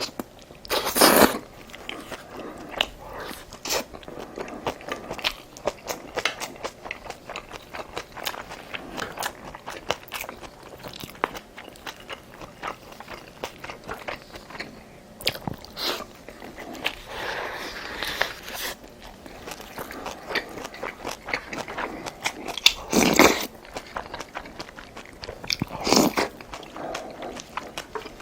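A person eating close to the microphone: steady chewing and biting with many small crunching clicks, and a few louder crunches, one about a second in and two more near the end.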